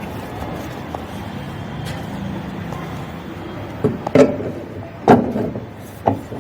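A steady mechanical hum, then about five sharp knocks and clatters from about four seconds in.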